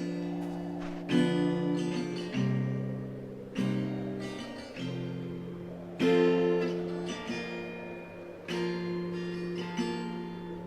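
Instrumental stretch of a pop song: acoustic guitar strumming chords, a new strum every second or two, each ringing out.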